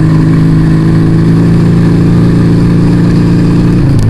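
Yamaha Vega ZR motorcycle engine running through an Arrow aftermarket exhaust while riding at a steady speed, its note dropping slightly in pitch near the end.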